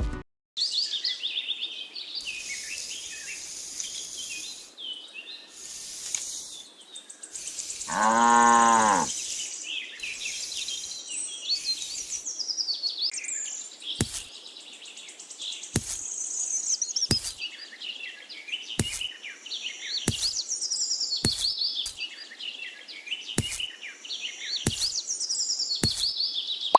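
Birds chirping and singing throughout, with a single cow's moo arching up and down about eight seconds in. Through the second half, a sharp click sounds roughly once a second.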